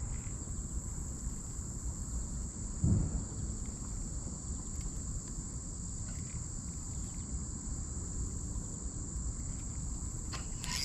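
Steady high-pitched chorus of insects, crickets by their sound, over a low rumble of outdoor noise. One short, dull thump comes about three seconds in.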